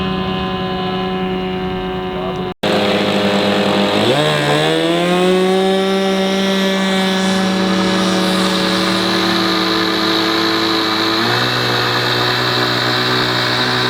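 Large radio-controlled model airplane's engine running steadily. About four seconds in it revs up in a smooth rising glide, then holds the higher pitch.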